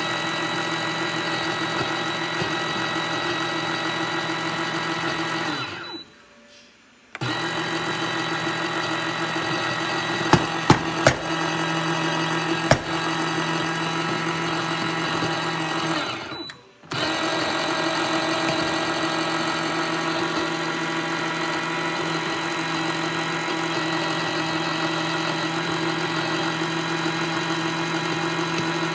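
MIROX espresso machine running: a steady mechanical hum with a strong pitched drone, cutting off abruptly twice for about a second, with a few sharp clicks midway.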